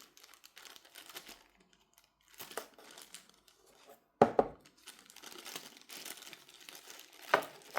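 Plastic packaging crinkling and rustling as small phone-repair tools are handled, with a sharp clack about four seconds in and another near the end.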